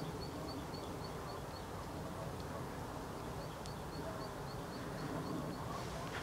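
A bird repeating a short high chirp about four times a second, with a pause of about a second partway through, over a steady low rumble.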